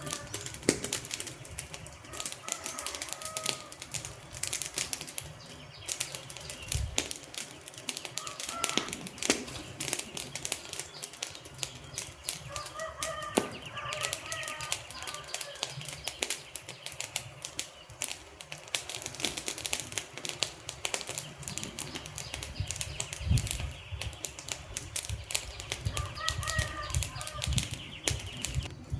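Wood fire crackling: a dense, irregular run of sharp pops and snaps from the burning logs.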